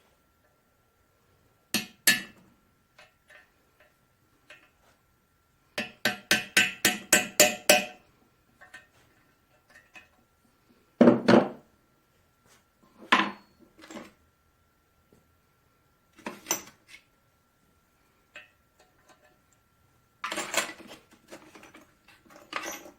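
Hammer striking a cape chisel to cut a seized, broken-off brass pipe thread out of the engine's water-hopper drain hole. A pair of sharp metallic strikes comes first, then a quick run of about nine blows, then single taps spaced a few seconds apart and a last cluster near the end.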